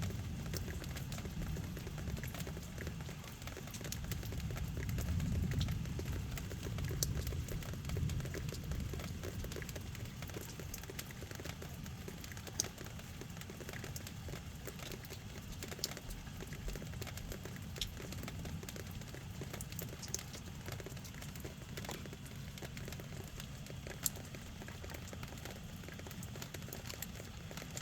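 Steady rain falling at night, with scattered sharp drip ticks. A low rumble swells and fades over the first several seconds.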